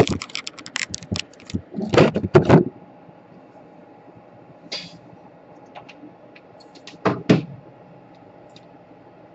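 Small tools and parts being handled on a repair bench during soldering work: scattered clicks and light knocks. They come in a quick run at the start, another about two seconds in, a single tap near five seconds and a short run about seven seconds in, over a faint steady hum.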